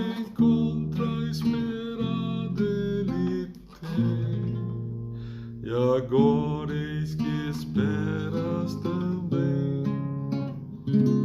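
Acoustic guitar strummed and picked, accompanying a slow hymn, with a man's voice singing long held notes in places.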